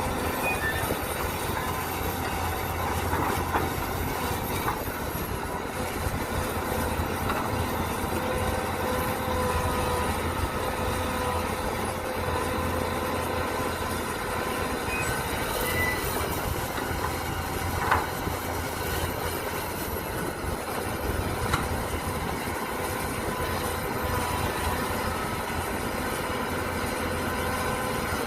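Mini excavator working: its engine running steadily with a hydraulic whine and metal squeal, and a few sharp knocks from the bucket and linkage, the loudest about two-thirds of the way through.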